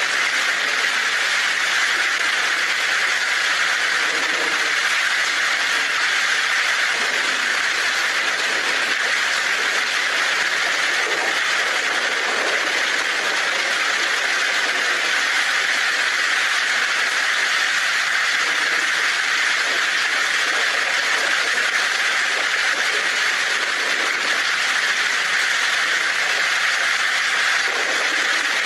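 Heavy rain drumming steadily on a tin roof, an even, unbroken hiss of drops.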